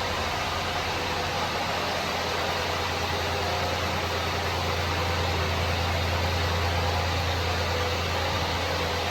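1996 Honda Acty mini truck's three-cylinder engine idling steadily, a constant low hum under a broad hiss.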